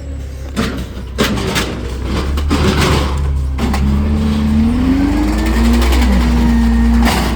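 Garbage truck running, with several sharp clunks in the first three seconds, then its engine note rising and holding at a higher steady pitch, and a short sharp burst of noise near the end.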